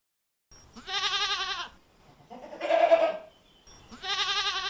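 Goat bleating three times, each call a quavering bleat of about a second with short pauses between.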